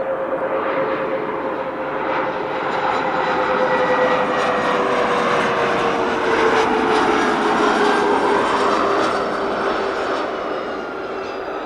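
Bombardier Challenger 604 business jet's turbofan engines as the jet passes by: a steady whine that slides down in pitch under a broad rush, which swells to its loudest in the middle and then eases off.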